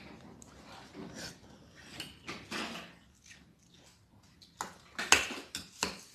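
Light clatter and rustling of a plate, utensils and food being handled, with a couple of sharp knocks near the end.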